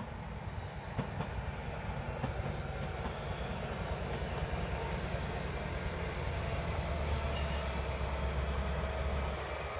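Greater Anglia Stadler FLIRT passenger train passing close by. Its low rumble builds to its loudest near the end, then falls away, over a steady high whine and a few light clicks of the wheels.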